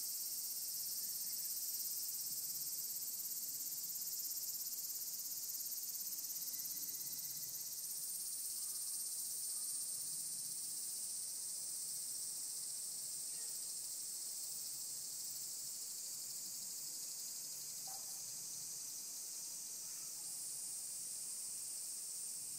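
Chorus of several cicada species calling together as a steady, high-pitched drone. Another cicada joins in at a higher pitch about eight seconds in, and again near the end.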